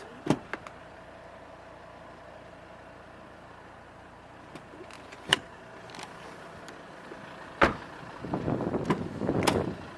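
A few sharp clicks and knocks over a faint steady hum: two just after the start, one about five seconds in and one near eight seconds, followed near the end by a louder rustling noise lasting about a second and a half.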